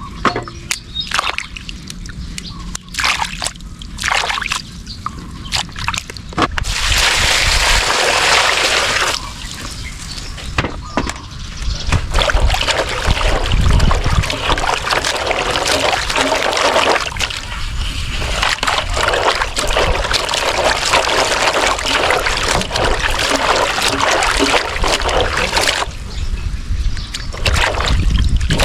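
Water sloshing and splashing as fresh turmeric roots are washed by hand in a basin, with a few separate knocks in the first seconds before a continuous wash of splashing sets in.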